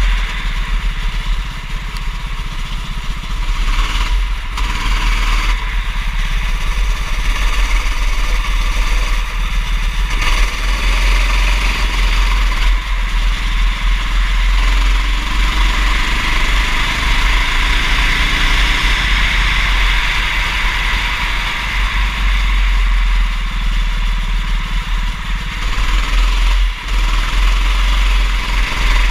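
Go-kart engine running continuously through a race, its pitch shifting with the throttle, over a steady loud noise.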